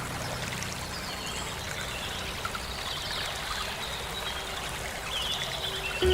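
Steady flowing water like a stream, with a few short high-pitched chirps over it.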